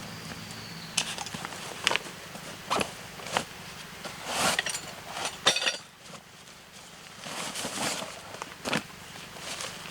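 Irregular clicks, taps and rustling, with a sharper knock about five and a half seconds in.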